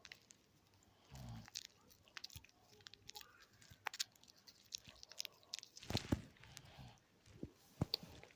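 Homemade slime being squeezed and worked by hand for ASMR: faint, irregular sticky clicks and small pops, coming thicker about six seconds in.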